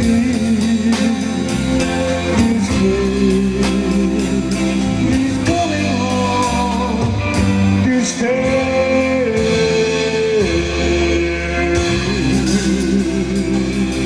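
Live band music: electric guitars and bass over a steady drum beat, with a held melody line that wavers in vibrato and steps between long notes.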